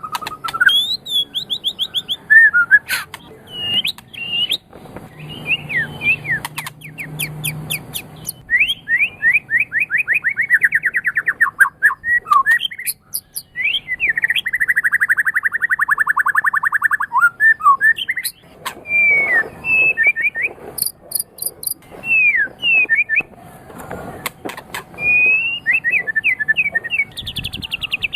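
White-rumped shama (murai batu) singing a varied song. It mixes short whistled notes that slide up and down with sharp clicking notes. Twice it breaks into a long, fast, buzzy trill, about a third of the way in and again a little past halfway.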